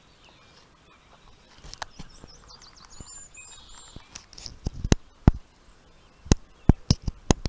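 A bird sings a short run of high chirping notes about three seconds in. In the second half come about eight sharp clicks, the loudest sounds, in irregular quick succession.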